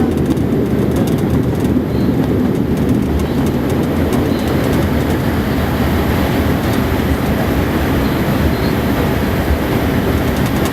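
Cabin noise of a Fokker 50: its twin turboprop engines running with a steady, loud low rumble, mixed with the rumble of the aircraft rolling on the ground after landing.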